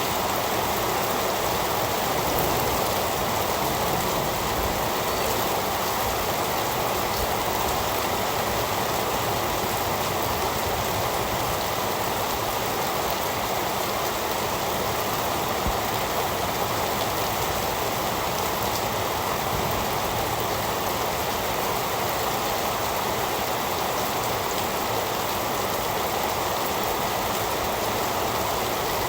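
Heavy rain falling steadily, a dense even hiss of drops with no thunder and no change in intensity.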